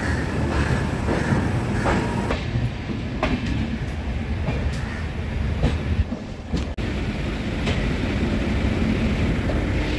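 Deccan Express passenger train pulling out of the station: a steady rumble with irregular clacks of the wheels on the track.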